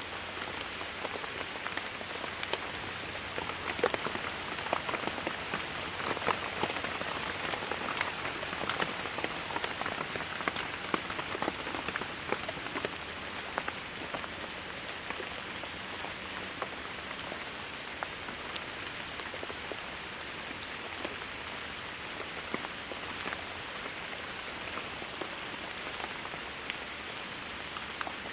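Steady rainfall with many distinct drops pattering on a surface, the individual drips a little denser in the first half.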